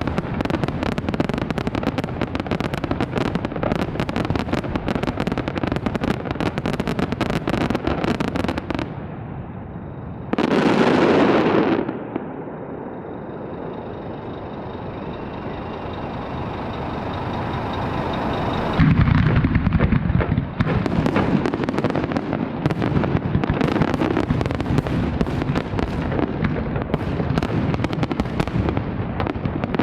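Large fireworks display: a dense barrage of rapid bangs and crackling, one loud burst about ten seconds in, then a quieter stretch with a faint steady high whistle, before a heavy barrage of bangs resumes near the two-thirds mark.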